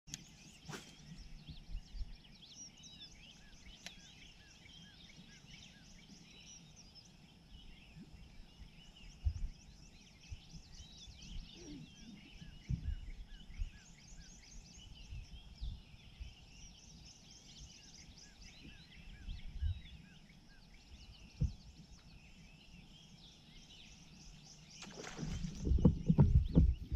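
Birds singing in the early morning over a steady high-pitched buzz, with short repeated chirps coming and going. There are occasional soft low thumps, and a louder stretch of knocking and rustling near the end.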